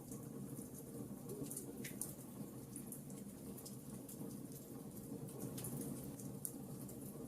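Log campfire burning: irregular sharp crackles and pops of the burning wood over a steady low rush of the flames.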